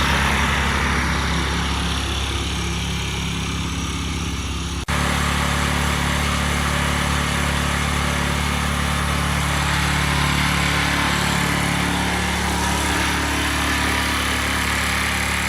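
A lawn mower's small engine running steadily. About five seconds in the sound breaks off sharply and resumes a little louder at a slightly different pitch.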